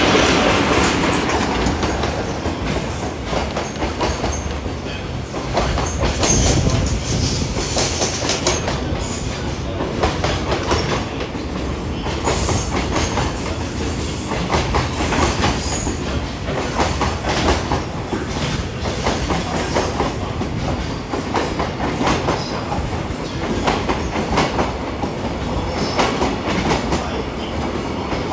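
Container freight train hauled by an EF66 electric locomotive passing through, a long string of Koki container flat wagons rolling by with a steady clickety-clack of wheels over rail joints. The loudest moment is right at the start.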